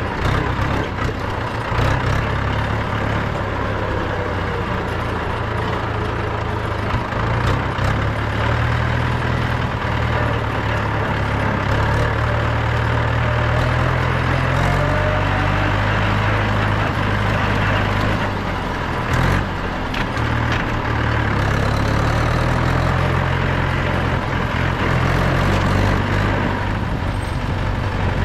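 Mahindra 475 DI tractor's 2730 cc four-cylinder diesel engine running steadily while driving. About two-thirds of the way through the engine note drops out briefly with a few knocks, then picks up again.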